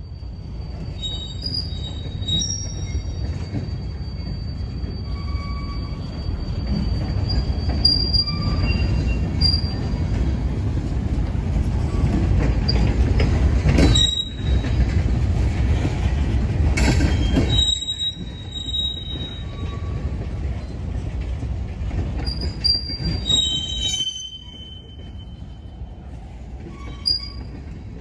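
Freight cars of a manifest train rolling past on the rails: a steady low rumble of wheels on track, with short high-pitched wheel squeals coming and going. The rumble is loudest in the middle and drops off noticeably about three-quarters of the way through.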